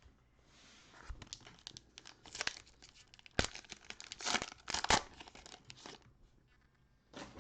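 Cellophane wrapper of a trading-card pack being torn open and crinkled: a run of crackling tears and rustles with a few sharper snaps, dying away about six seconds in.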